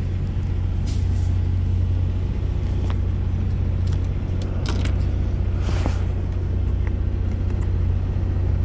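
Steady low drone of a semi-truck's diesel engine idling, heard inside the cab, with a few light clicks of handling.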